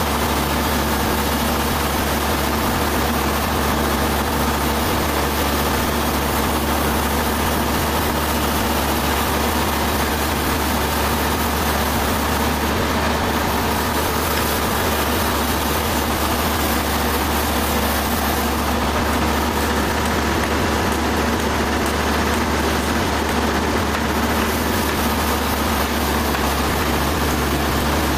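Sawmill machinery running steadily: a constant low drone under a high, even mechanical hum that does not change.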